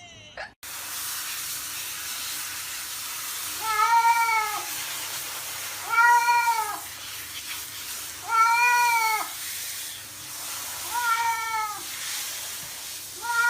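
A cat meowing over and over: four drawn-out meows about two and a half seconds apart, each rising then falling in pitch, over a steady background hiss.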